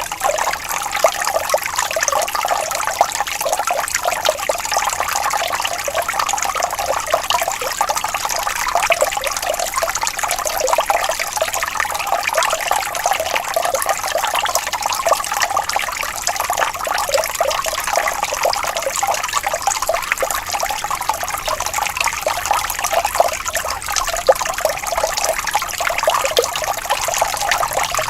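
Water flowing and trickling steadily, with a fine bubbling splash and little low rumble.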